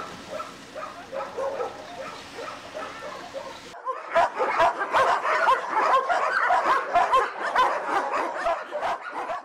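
A large pack of shelter dogs barking and yelping together. At first it is fainter over a low hum, then about four seconds in it switches suddenly to a loud, dense chorus of many overlapping barks.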